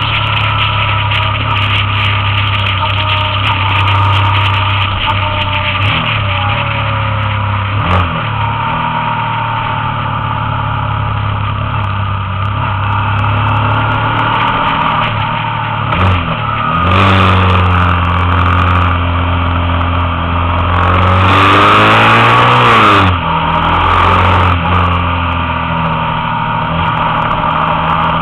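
Motorcycle engine heard from on board, running steadily at road speed through bends. A few times its note drops and climbs again as the rider eases off and accelerates, most strongly and loudest about three-quarters of the way through.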